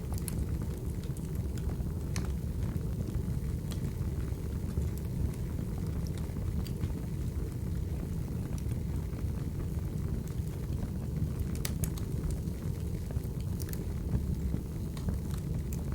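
Wood fire burning: a steady low rumble of flames with scattered sharp crackles and pops, including a quick cluster of pops about three-quarters of the way through.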